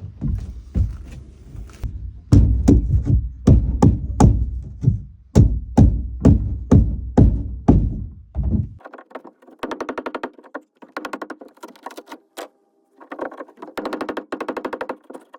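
Heavy repeated blows, about two a second, pounding at the rotted wood core inside a fiberglass boat deck. About nine seconds in the deep thuds stop abruptly, and bursts of a fast, thinner rattling clatter follow.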